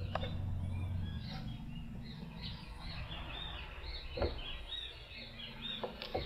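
A small bird chirping over and over in quick, short, high notes. A low steady hum fades out after about a second, and sharp clicks come about four seconds in and twice near the end.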